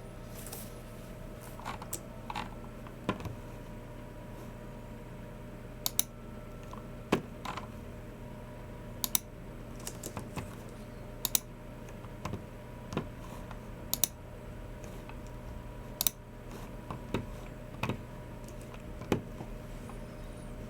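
Slow, irregular keystrokes and clicks on a Logitech MX Keys Mini low-profile keyboard and a Logitech G304 mouse, roughly one a second, over a steady low hum.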